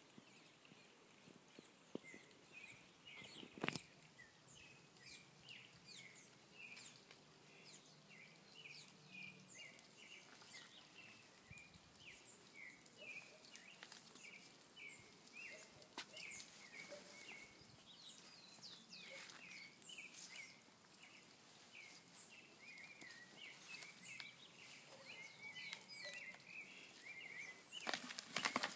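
Faint outdoor ambience of small birds chirping over and over, with an occasional sharp click. Near the end comes a burst of louder rustling and knocks.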